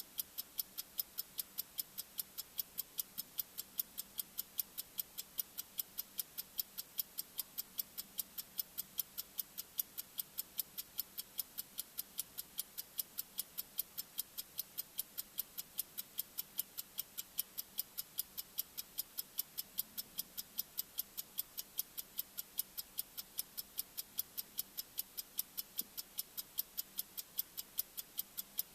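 Bomb-timer ticking sound effect: sharp, high-pitched ticks at a steady pace of about two a second.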